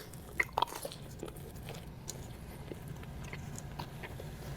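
Close-miked chewing of a garlic knot dipped in marinara: a few sharp bite and mouth clicks in the first second, then quieter, scattered chewing over a low steady hum.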